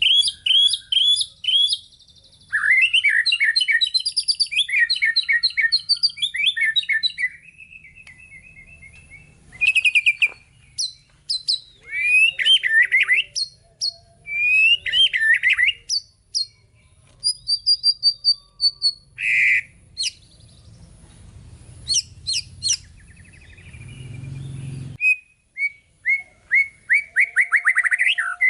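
White-rumped shama (murai batu) singing a long, varied song: rapid trills, slurred rising and falling whistles and chattering phrases, broken by short pauses.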